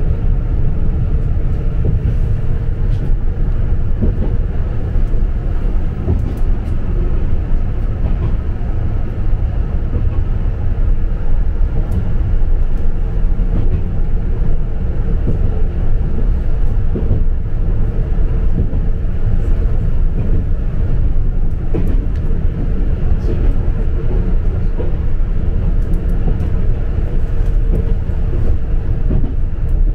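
Izukyu Resort 21 electric train running, heard from inside its observation car: a steady rumble of wheels on rail with a faint constant hum and a few light clicks now and then.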